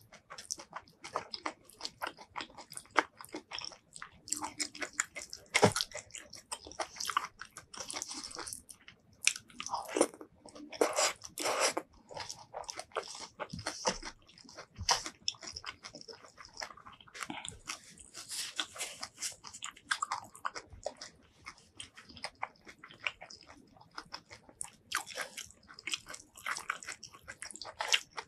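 Close-miked eating: chewing and crunching mouthfuls of rice mixed with fried roselle leaves, bamboo shoots and fried dry chillies, a dense uneven stream of crisp clicks and crunches. Fingers squeezing and mixing the soft rice add soft squishing between bites.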